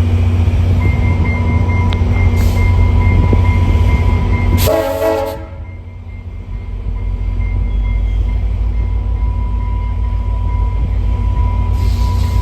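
Diesel passenger train running with a steady low engine rumble. A short horn blast sounds about five seconds in, then the rumble drops away briefly and builds back up.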